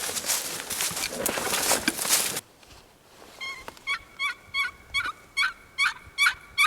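Footsteps crunching through dry ground cover. After a sudden cut to quiet, a run of about nine short turkey yelps, getting louder toward the end.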